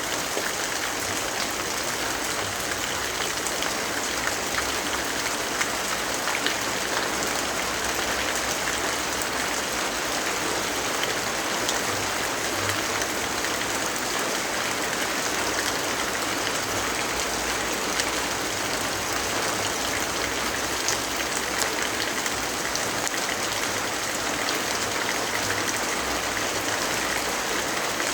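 Steady rainfall, an even hiss of rain with a few faint, scattered ticks.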